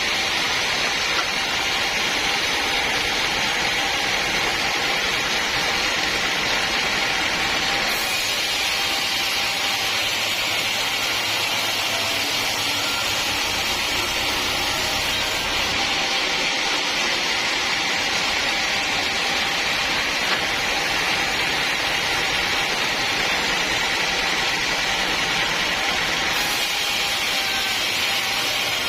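Sawmill machinery running with a steady, loud mechanical noise. Its character changes abruptly a few times, as at cuts between shots.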